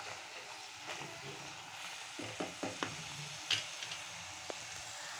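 Ground masala paste sizzling in hot oil in a steel kadai while a spoon stirs it, with a few short scraping clicks of the spoon against the pan in the middle of the stirring.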